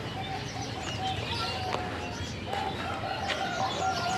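Many birds calling over one another, a dense mix of short chirps and whistled notes, with one longer held call starting about two and a half seconds in.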